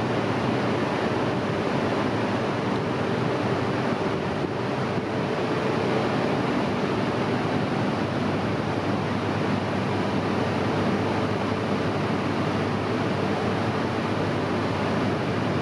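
Steady rushing noise with a faint hum beside a stopped JR East E3 series Shinkansen train at a station platform.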